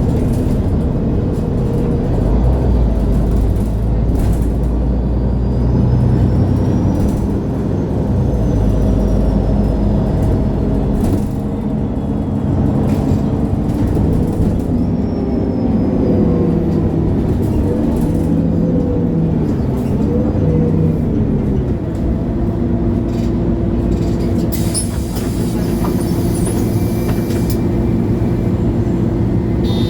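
MAN A23 Lion's City G articulated diesel city bus heard from inside while driving, its engine note rising and falling as it accelerates and shifts through the gears. A brief hiss of air comes about three-quarters of the way through.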